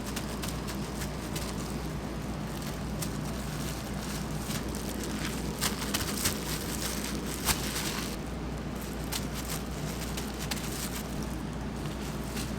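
Oil deep-frying in a kitchen: a steady sizzling crackle over a low hum, with a few sharp knocks a little past halfway.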